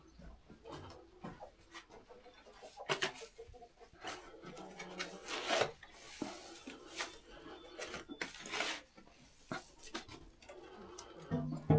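Irregular scraping and rustling with a few light knocks.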